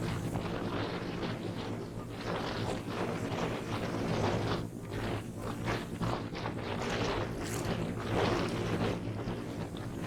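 A small engine running steadily with a low drone, with irregular noisy rustles and splashes over it.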